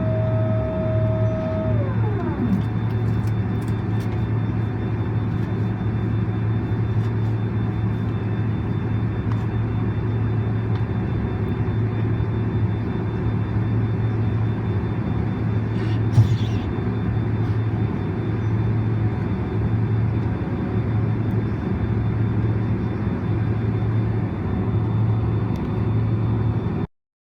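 Steady low rumble inside the cabin of a Boeing 767-400ER airliner. About two seconds in, a high whine slides down in pitch and fades, and a single click comes around the middle. The sound cuts off abruptly near the end.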